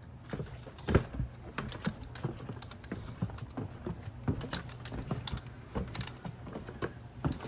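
A run of irregular light clicks and knocks, several a second, over a faint steady hum.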